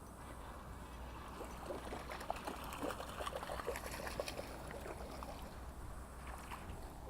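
Water splashing and dribbling in a quick irregular cluster of small splashes, starting about a second and a half in and dying away around five seconds in.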